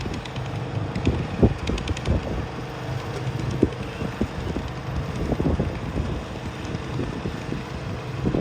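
Garden tractor engine running steadily, with wind buffeting the microphone and a few knocks.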